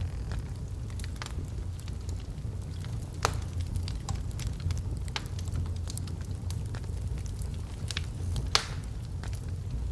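Logs burning in a fireplace: a steady low rumble of flame with scattered sharp crackles and pops, two louder pops about three seconds in and near the end.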